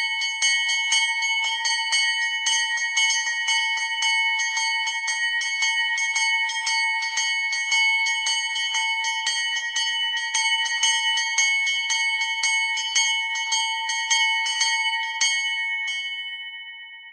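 A bell struck rapidly and over and over, about four strikes a second, its ringing tones held steady throughout, dying away near the end.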